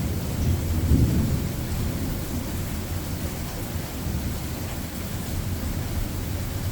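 Thunder rumbling during a rainstorm, loudest about a second in and then settling into a steadier low rumble, with rain falling throughout.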